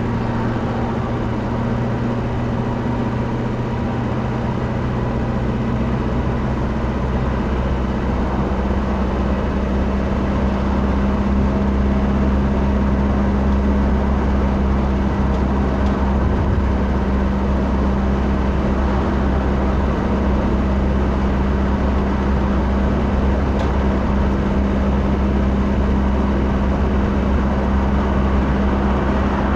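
Motor vehicle running on the road: a steady drone of engine and road noise. The engine's low tone changes pitch about seven seconds in.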